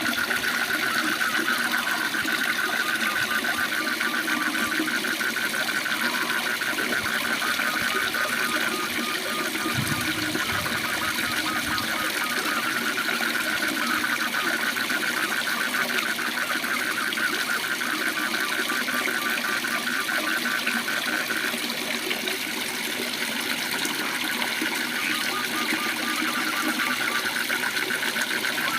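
Waterfall rushing steadily, with frogs trilling over it in a fast, even pulsing call.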